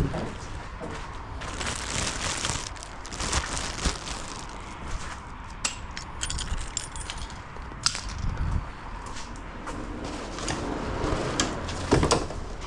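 Things being rummaged through and handled: irregular rustling and knocks, with small metallic clinks about halfway through, like loose bolts being picked up.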